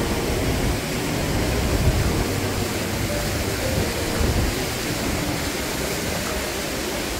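Steady rush of flowing water from the gorge's mountain stream and waterfalls, an even hiss with no breaks.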